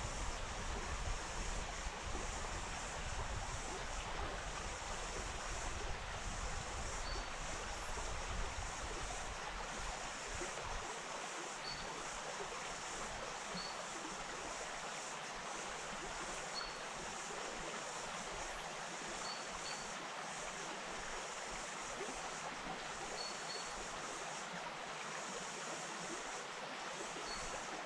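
The Wainuitewhara stream flowing steadily. Faint short high chirps sound every few seconds, and a low rumble dies away about ten seconds in.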